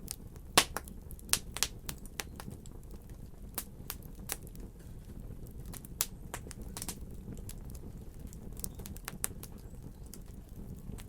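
A fire crackling: irregular sharp pops and snaps over a low steady rumble, with the loudest pop about half a second in.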